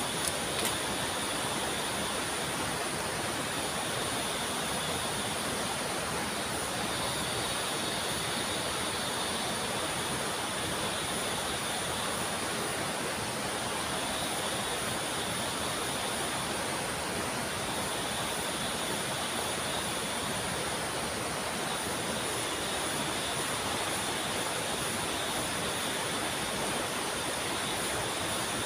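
Rapids and a waterfall rushing steadily. Above the rush is a steady high whine, and a second, lower whine comes and goes every few seconds.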